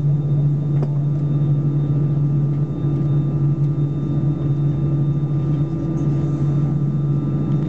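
Steady low hum inside an Airbus A320 passenger cabin, with faint steady higher tones over it; it holds even, with no spool-up.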